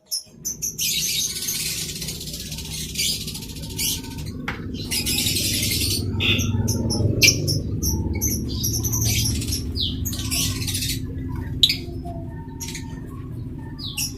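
A colony of lovebirds chattering and screeching, with many short high chirps and two long shrill stretches of massed screeching. A steady low rumble runs underneath.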